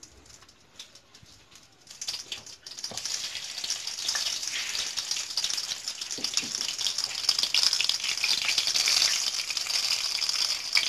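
Stuffed capsicum halves in gram-flour paste frying in hot refined oil in a steel kadai: a sizzle starts about two seconds in and builds to a steady hiss.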